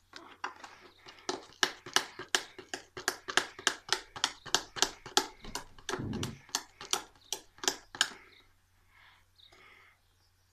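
Fingernails picking and scratching at stubborn packing tape on a cardboard toy box: a rapid run of sharp clicks, about four a second, with a duller thump about six seconds in. The clicking stops about two seconds before the end.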